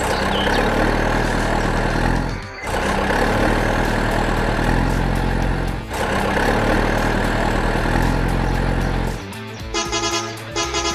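Heavy vehicle engine running loudly in three stretches, with short dips about two and a half and six seconds in. Light rhythmic music comes in near the end.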